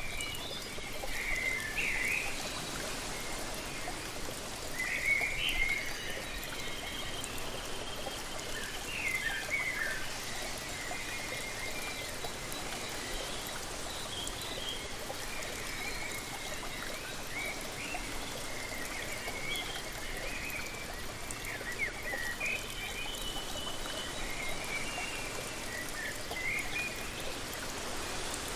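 Steady rush of falling water from a waterfall, with many short bird chirps and calls overlapping it throughout.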